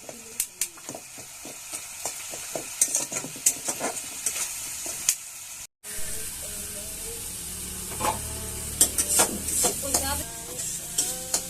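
Food sizzling in hot oil in a pan while a utensil stirs it, scraping and knocking against the pan again and again. The sound drops out for an instant a little past halfway.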